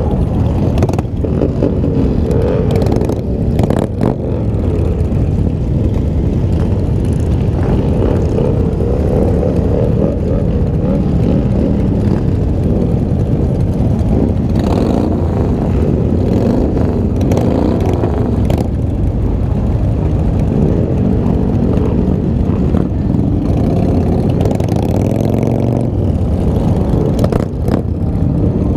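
Motorcycle engines running in a large group ride, their pitch rising and falling as they speed up and slow down, over a steady rumble of wind on the microphone.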